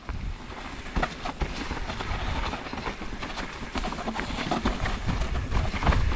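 Mountain bike rolling over a rough, rocky trail: dense rattling with many sharp knocks from tyres, frame and chain, over a low rumble of wind on the microphone. It starts suddenly.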